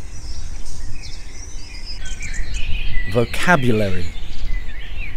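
Small birds chirping and twittering in short, repeated calls over a steady low background rumble.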